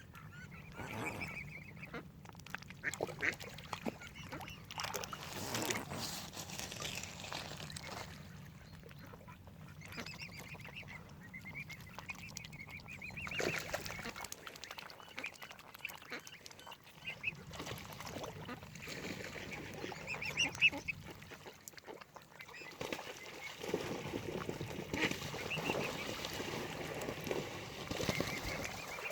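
Waterfowl calling, short calls coming in clusters with quieter gaps between, over a low steady rumble.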